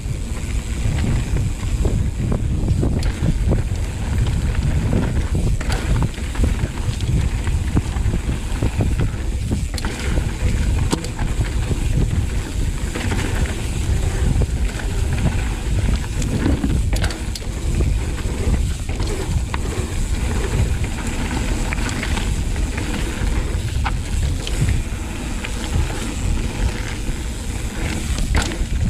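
Mountain bike descending a dirt trail, heard from a camera riding on the bike or rider: wind rushing over the microphone with tyre rumble and a steady stream of rattles and knocks from the bike over rough ground.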